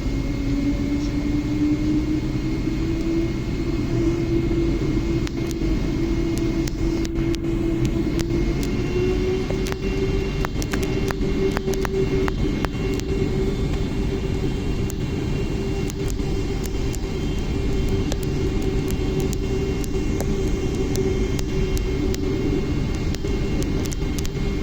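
Boeing 777-300's twin jet engines running at high thrust: a heavy low rumble with a whining tone that rises slowly for about ten seconds and then holds steady. Scattered sharp crackles run through it.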